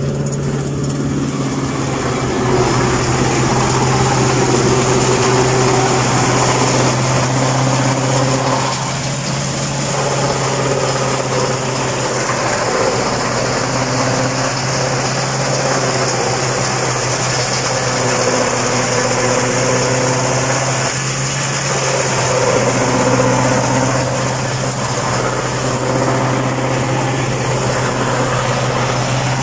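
Tractor engine running a three-point-mounted silage harvester: a loud, steady machine drone over a constant low hum, with brief shifts in the sound around a third and two thirds of the way through.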